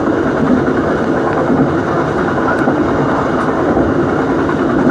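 Dhoho passenger train running along the track, heard from on board: a steady, loud rumble of wheels on rail.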